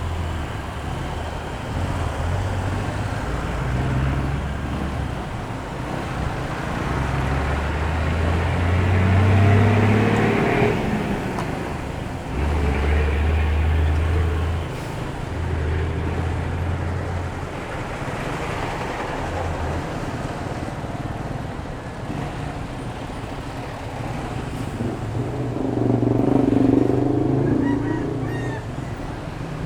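Motorcycle on the move in traffic: its engine running, the engine note shifting up and down with speed, over steady road noise.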